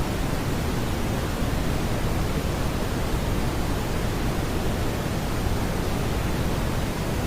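Steady smoothed brown noise: a constant, even hiss weighted toward the low end, with no tones or beats.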